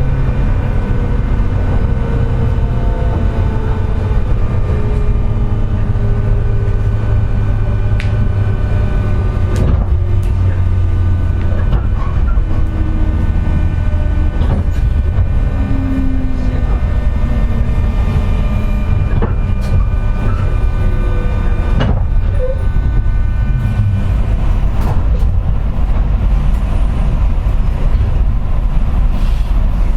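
Cabin running noise of a JR West 201 series chopper-controlled electric train's motor car, slowing: several motor tones glide steadily downward in pitch over a deep rumble, with a few sharp clicks from the wheels and rail joints. A steady high-pitched whine runs through it, the 'jet sound' of traction motor bearings pitted by electrical erosion.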